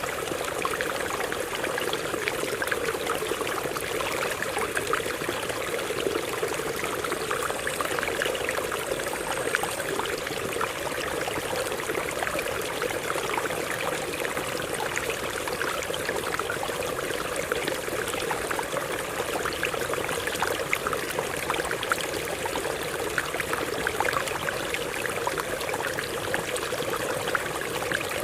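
Stream water running steadily over rocks, an even rushing flow with small splashes and gurgles all through.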